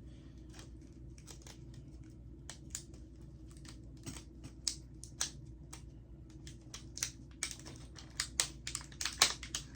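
Plastic snack packaging crinkling and clicking as it is handled and opened: irregular short crackles that come thicker and louder in the last few seconds.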